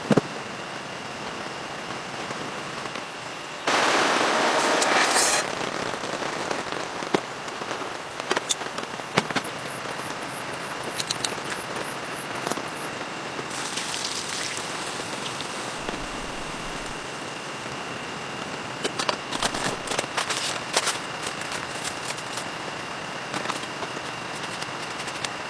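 Steady rain with scattered sharp pops and crackles, and a louder rush of noise about four seconds in that lasts over a second.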